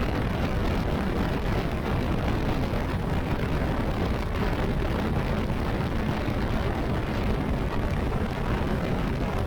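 Steady wind blast on the camera's microphone while riding a Honda CBR650R motorcycle at speed, a constant heavy rush with the bike's engine and road noise underneath.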